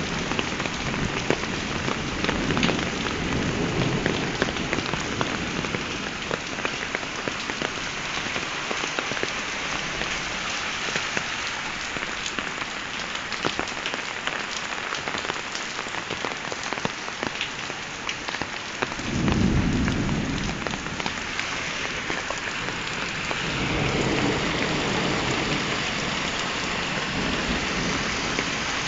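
Heavy rain falling steadily, with patter on a hard surface, during a thunderstorm. Thunder rumbles low a few times; the loudest roll comes about two-thirds of the way through, and a longer one follows soon after.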